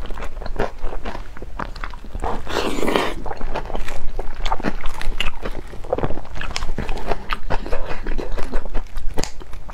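Close-miked chewing of a chewy braised pork-skin roll: many short, wet clicks and smacks from the mouth, with a louder wet, slurping burst about two and a half seconds in.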